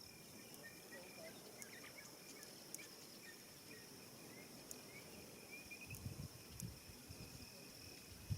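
Faint, steady high-pitched insect trilling in the evening bush, typical of crickets, with scattered soft bird chirps over it.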